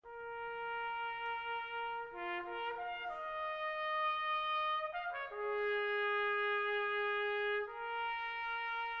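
Intro music: a brass ensemble of trumpets and horns playing slow held chords that change a few times.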